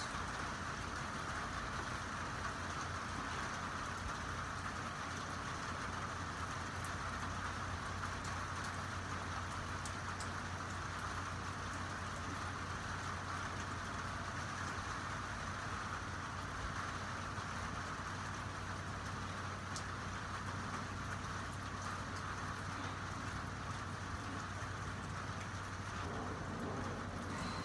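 Steady rain falling, an even hiss with no let-up, over a low steady hum.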